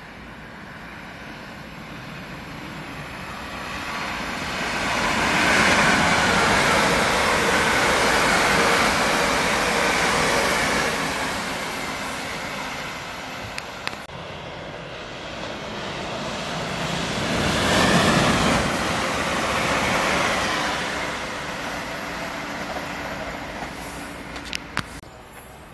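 London Northwestern electric multiple-unit passenger train passing at speed: a rushing rumble of wheels on rails that builds for several seconds, holds loud, eases, then swells again before fading.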